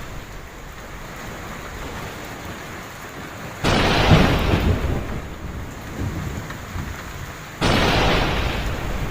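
Heavy rain falling steadily, with two sudden claps of thunder about four seconds apart, each rumbling away over a couple of seconds.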